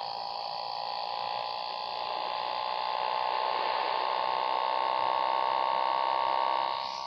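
Yamaha XJ6 inline-four engine under way, a whine whose pitch climbs steadily over several seconds as the bike accelerates, then falls off abruptly near the end as the throttle is eased or a gear is changed.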